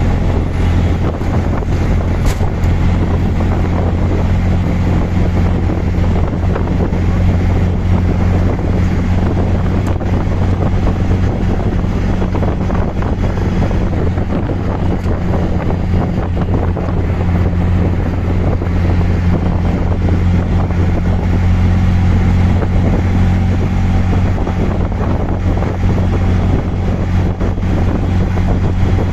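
Auto-rickshaw engine running steadily as a loud, even low drone, heard from inside the open cabin, with wind buffeting the microphone.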